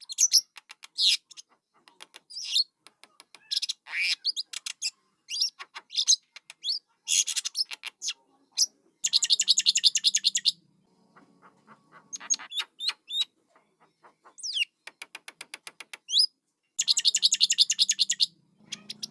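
Starling chicks calling with many short, sharp chirps and squawks, with two longer stretches of rapid, buzzy chattering about nine seconds in and again near the end.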